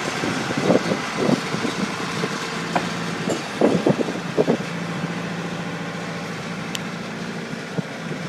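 A steady mechanical hum with a few short knocks and clatters from work on the truck.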